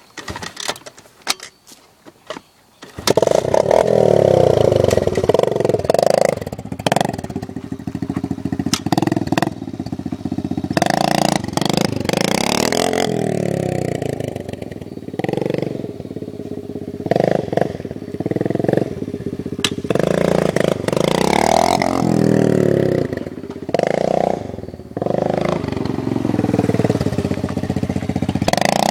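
Kawasaki dirt bike engine bursts into loud running about three seconds in after a few faint clicks, then is revved up and down over and over during a burnout.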